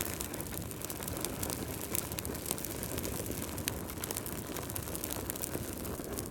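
Wood logs burning in a fireplace: a steady low rush of flame with many small, sharp crackles and pops at irregular intervals.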